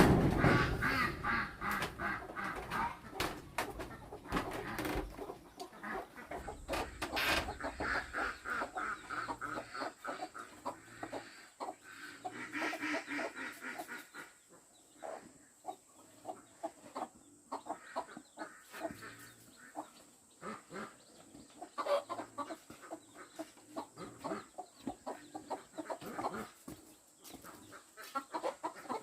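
Chickens clucking: many short calls in irregular runs, loudest in the first few seconds.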